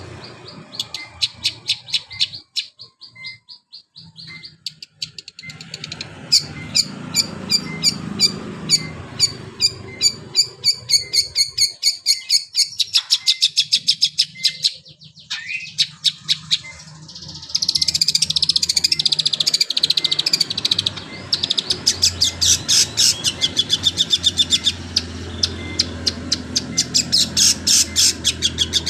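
Long-tailed shrike (cendet) singing a canary-like song: long, fast trills of rapidly repeated high notes, broken by a few short pauses and growing denser and louder in the second half.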